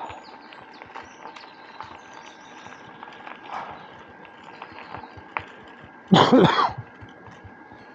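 Bicycle rolling along a rough woodland path, with a steady rolling noise and many small rattling clicks. About six seconds in the rider gives one short, loud cough; he is suffering from a heavy cold.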